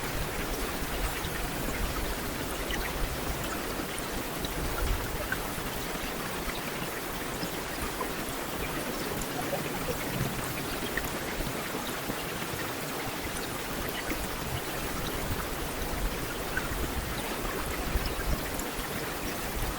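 Heavy rain falling steadily, an even hiss with scattered individual drops ticking through it.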